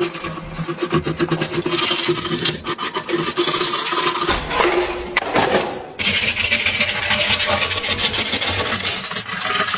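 Rapid scraping and rasping strokes, as of hand-filing or sanding a part. There is a break about six seconds in, after which the scraping carries on.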